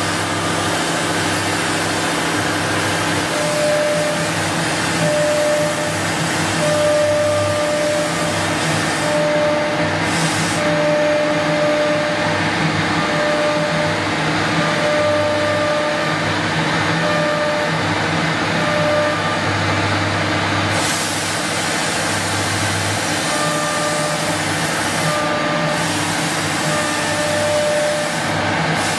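Twin-spindle CNC wood router running and cutting, a loud steady rushing noise. Short whining tones come and go about once a second as the machine moves.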